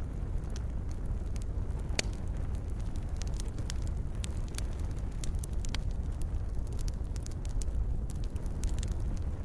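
Wood campfire crackling, with many sharp pops and snaps scattered irregularly over a steady low rumble. One louder pop comes about two seconds in.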